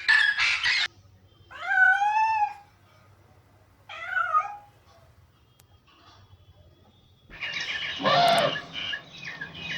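Parrot calling: a harsh squawk at the start, then two pitched cries that rise and fall, a longer one and a short one, and harsh squawking again in the last few seconds.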